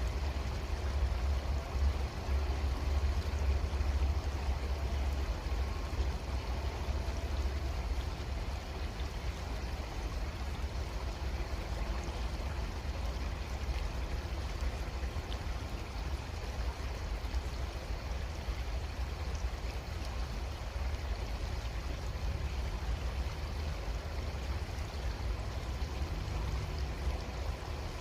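Creek water flowing steadily, an even rushing sound with a low rumble underneath that is a little stronger in the first few seconds.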